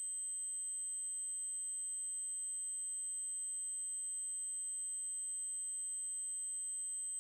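A synthesized 8192 Hz triangle-wave tone, held steady at one high pitch.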